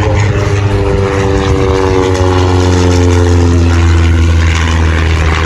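Propeller aircraft engine running steadily, its tone sinking slowly in pitch, over a strong low hum.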